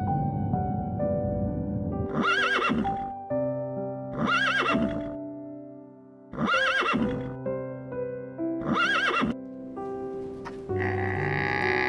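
A horse neighing four times, about every two seconds, each whinny quavering in pitch, over soft background music. Near the end a different, longer animal call begins.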